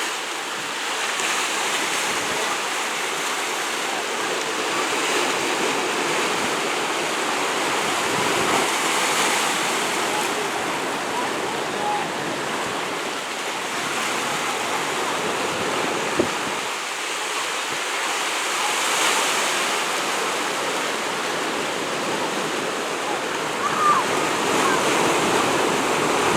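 Steady rushing of waves and water with wind on the microphone, and faint distant voices now and then.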